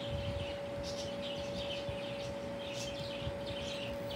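Short high chirps repeating irregularly, typical of small birds, over a steady electrical hum.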